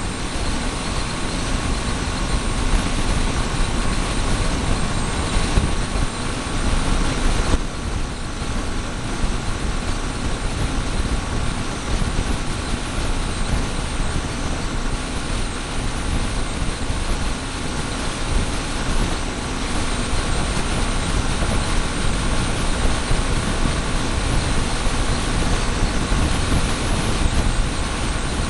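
Motorcycle running steadily with a constant low rumble, heard close up through a small camera cable-tied to the bike.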